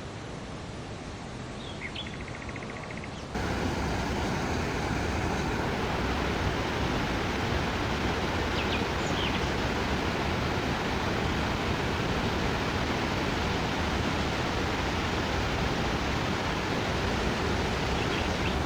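Steady outdoor rushing noise with no clear pitch, stepping up suddenly about three seconds in and then holding level, with a few faint bird chirps.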